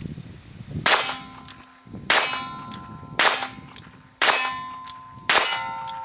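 Revolver fired single action with CCI Blazer ammunition, five shots about a second apart, each followed by a metallic ringing that fades over about a second. Every round goes off with no misfire.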